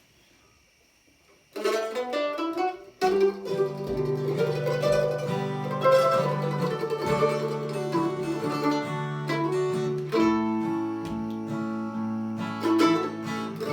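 Instrumental intro of an acoustic song on plucked strings: after a second and a half of near silence, picked guitar notes start, pause briefly, then fuller playing with sustained low notes carries on.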